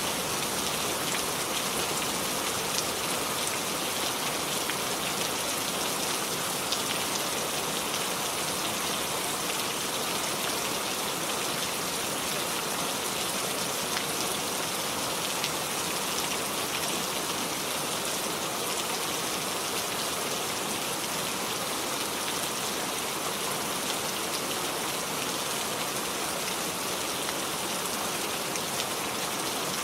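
Steady rain falling, an even dense hiss with scattered individual drop ticks.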